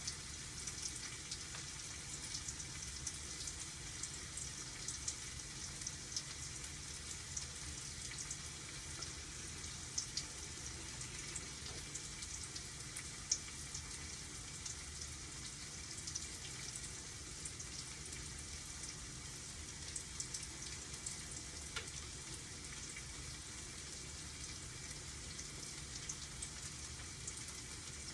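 Food frying in hot oil in a pan, sizzling steadily with scattered crackles and pops as it browns.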